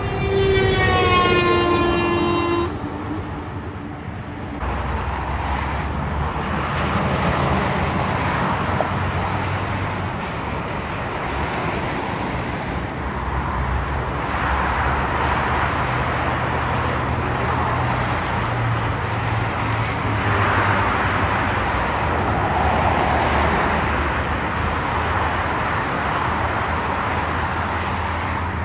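A vehicle horn sounds once for about two and a half seconds. Then comes the steady noise of road traffic, with heavy engines running and tyres on the road as trucks pass.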